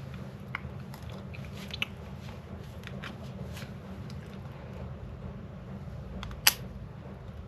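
Small clicks and scrapes of plastic and metal parts being handled as a microphone's internal assembly is worked out of its body, with one sharp, louder click about six and a half seconds in, over a steady low hum.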